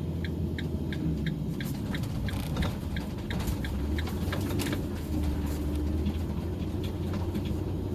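Car driving, heard from inside the cabin: a steady low engine and road rumble. Light, evenly spaced ticks, about three a second, run through the first half and then stop.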